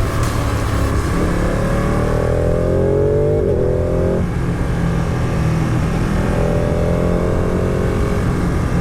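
Motorcycle engine pulling hard as it climbs in revs, then drops sharply on an upshift about four seconds in and climbs again near the end, with steady riding rumble and wind noise.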